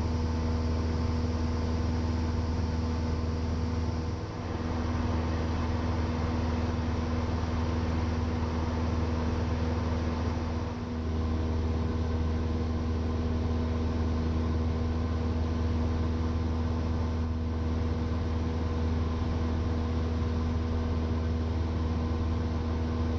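1977 Cessna 172N's four-cylinder Lycoming engine and propeller droning steadily in cruise, heard from the cockpit. The drone dips briefly twice, about four and eleven seconds in.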